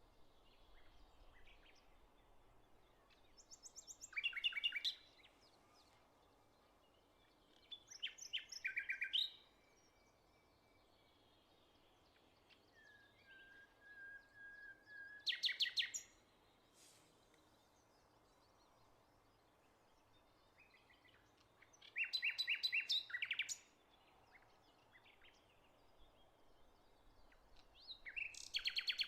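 A songbird singing short phrases of rapid, repeated high notes, five phrases spaced several seconds apart, over a faint steady outdoor background hum.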